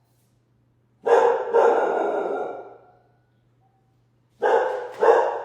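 A dog barking: two barks about a second in, then two more near the end.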